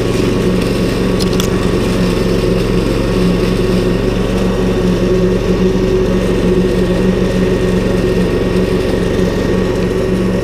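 Ryobi 190cc four-stroke lawn mower's Subaru engine running steadily at a raised throttle while mowing long grass.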